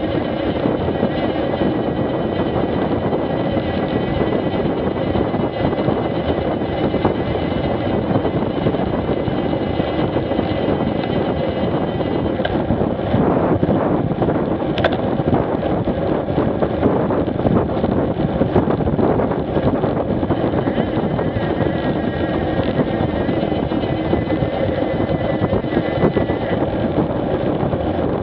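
Street motorcycle riding along: steady engine and wind noise picked up by a bike-mounted action camera's microphone, with a faint high whine that comes and goes.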